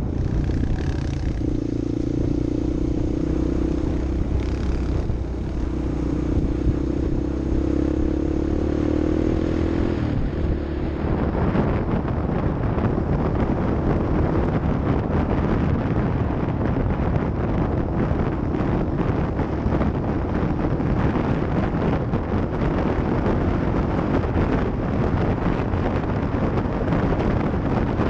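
Vehicle engine running steadily, rising a little in pitch. About ten seconds in it turns into a rougher, noisier sound with a lot of rattling, as over rough ground.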